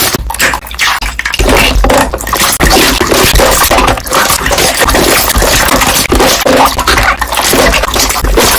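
Slime being pressed and worked, its trapped air bubbles popping in a dense, loud, rapid run of pops.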